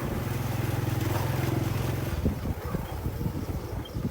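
Steady low engine hum of a running vehicle, with wind on the microphone; the hum thins and becomes more uneven about halfway through, with a few knocks.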